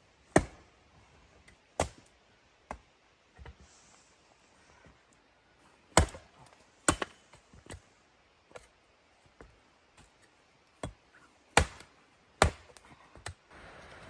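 Wood being chopped: about a dozen sharp blows at uneven intervals, some hard and some lighter.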